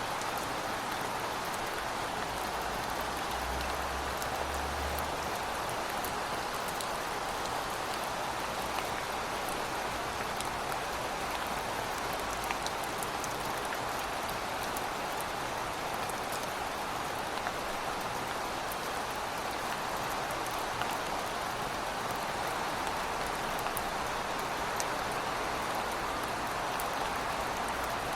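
Heavy rain falling steadily, a constant hiss with small scattered drop ticks and no let-up.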